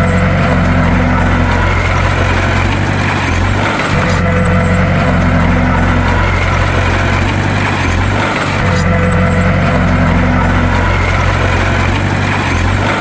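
Bulldozer's diesel engine running steadily with a deep hum, which dips briefly about four and eight seconds in.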